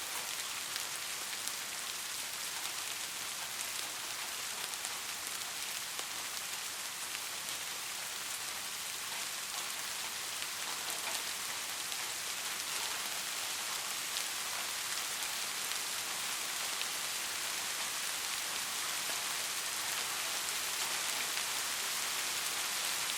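Steady rain falling: an even, unbroken hiss of many drops, with fine individual drop ticks scattered through it.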